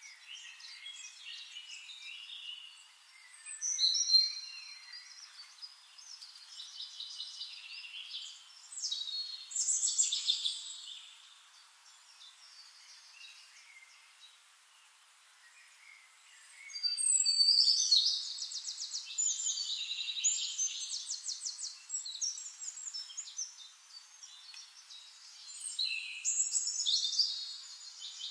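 Songbirds chirping and singing, several calls and fast trills overlapping in bursts, with a quieter lull in the middle.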